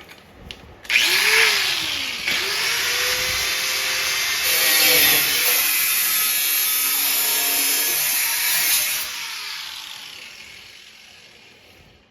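Handheld power tool cutting through the rusted sheet-steel frame of a snowmobile. It spins up about a second in, dips and picks up again, runs loudly for several seconds, then winds down slowly near the end.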